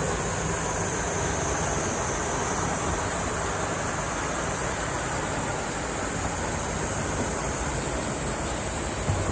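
Cicadas buzzing in one steady, high, unbroken drone over the even wash of sea waves on the shore, with a low rumble of road traffic underneath.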